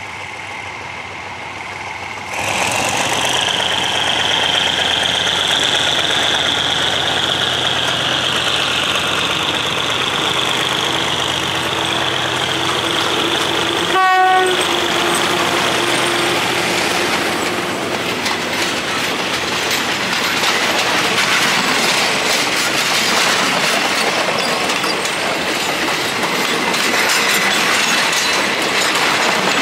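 Train passing at speed: a loud rumble with a high steady ringing tone at first, a short blast of the locomotive's horn about 14 seconds in, then the wheels clattering over the rail joints.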